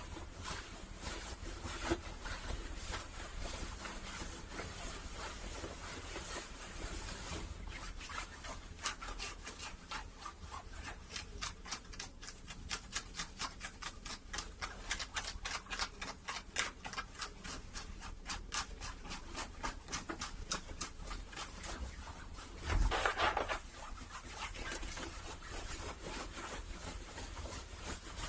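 Fingers rubbing and scratching the fabric of a hat close to the microphone, in quick, continuous scratchy strokes, with one louder rustle near the end.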